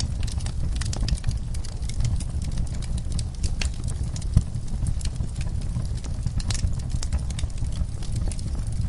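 Fireplace crackling: scattered sharp pops and snaps over a steady low rumble, with one louder thump about four and a half seconds in.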